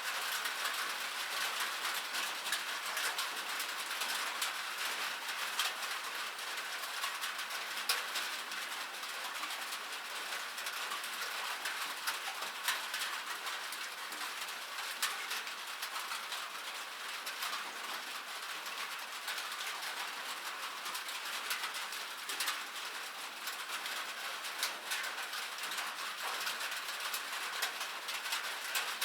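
Rain falling on a metal surface: a steady, dense patter of drop impacts with sharp individual ticks standing out.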